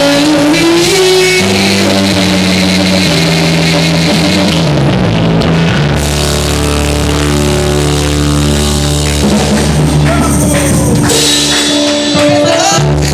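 Loud band music with drum kit, bass and electric guitar. Held notes change every second or two, with no clear lead voice.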